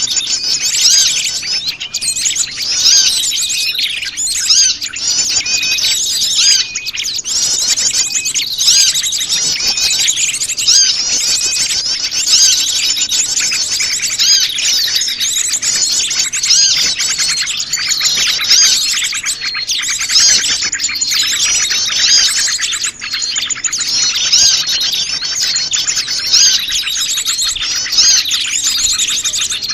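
Dense, noisy chorus of many small wild birds chirping and twittering at once, calls overlapping without a break: a mixed small-bird lure recording (suara pikat) played to draw wild birds in.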